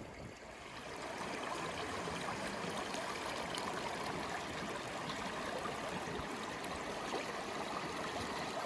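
A small stream running steadily, its rushing growing louder about a second in.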